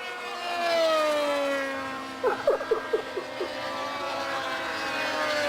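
Radio-controlled model aircraft engine passing overhead, its whine falling steadily in pitch as it goes by, loudest about a second in.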